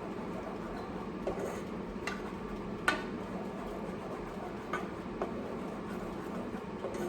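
A spoon stirring sauce in a pot, clinking against the side of the pot about five times, with the sharpest clink about three seconds in.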